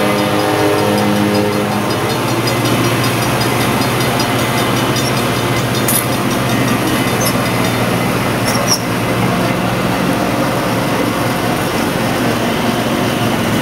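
Via Rail passenger train rolling past: a steady diesel engine hum for the first couple of seconds, then the even rumble and rattle of the coaches' wheels on the rails, with a few sharp clicks about six and nine seconds in.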